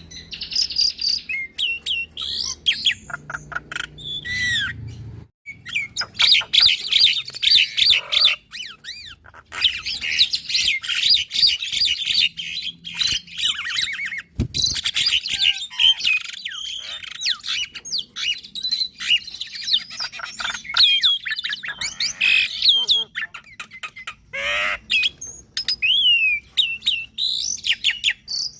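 Javan myna and black-winged myna singing in duet: a dense, varied stream of rapid chirps and sliding whistles with a few harsh squawks. It breaks off briefly about five seconds in.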